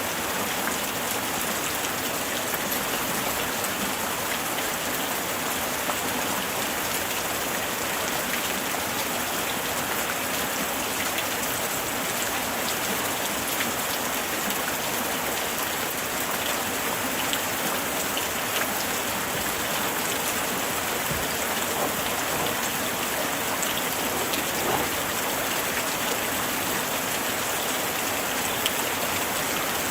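Steady light rain falling, an even hiss with many small drop ticks on surfaces.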